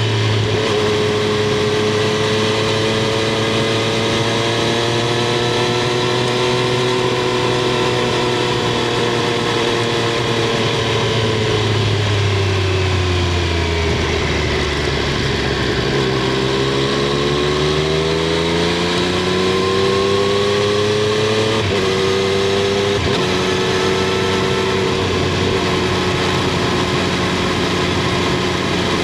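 Triumph Street Triple 765 R's inline three-cylinder engine and exhaust under way, heard from under the seat. The note holds steady, falls slowly as the revs drop around the middle, then rises again. Near the end the note breaks twice, briefly, before settling to an even pitch.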